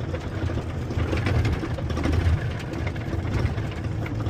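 Tractor-trailer's diesel engine running with a steady low drone, mixed with road and cab noise, heard from inside the cab.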